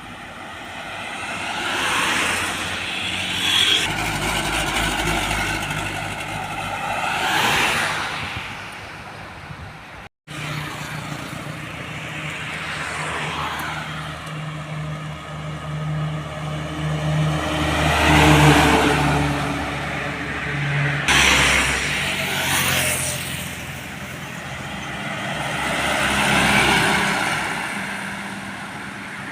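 Road traffic: vehicles passing one after another, engine hum and tyre noise swelling and fading about five times. There is a brief dropout about ten seconds in.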